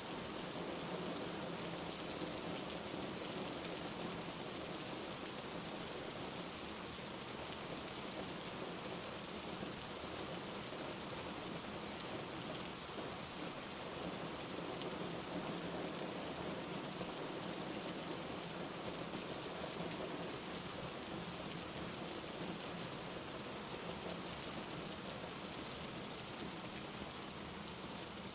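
Steady rain falling: an even hiss with fine drop ticks mixed in.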